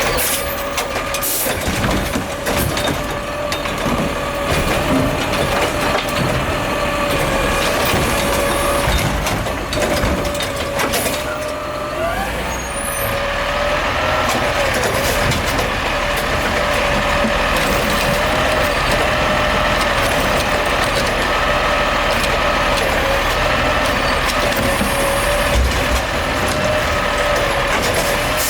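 Garbage truck working its hydraulics: a steady whine from the engine and hydraulic pump, with bangs and clatter through the first twelve seconds or so. About twelve seconds in the whine briefly drops, then rises again.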